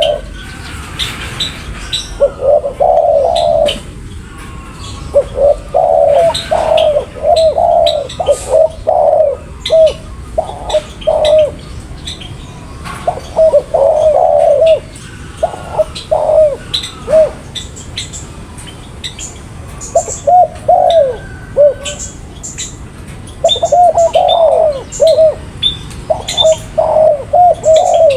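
Spotted dove (tekukur) cooing in repeated phrases of several low notes, with short pauses between phrases. Faint chirps of other small birds come through higher up.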